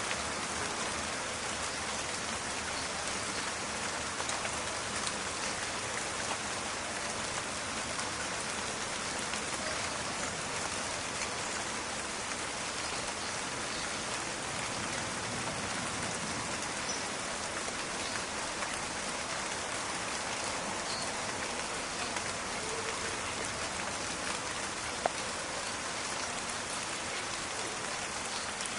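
Steady rain falling in a forest, a dense even hiss with many fine crackling drop ticks; one sharper click stands out near the end.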